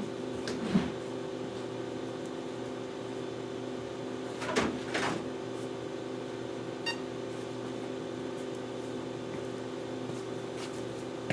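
Steady electrical or appliance hum in a small room, with a light knock about a second in, a louder double knock near the middle, and a brief quick run of ticks shortly after.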